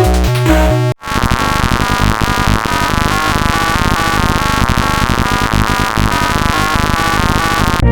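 Synthesized electronic music: a short synth melody, a sudden break about a second in, then a dense, clashing wall of many synth tones sounding together for the rest of the time.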